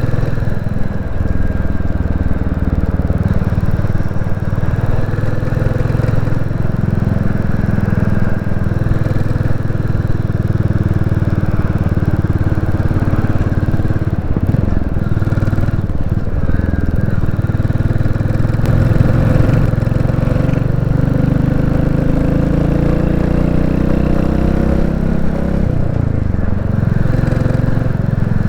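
Royal Enfield Classic 350's single-cylinder engine running under way at a steady pace. Its note dips briefly a couple of times, around halfway and near the end.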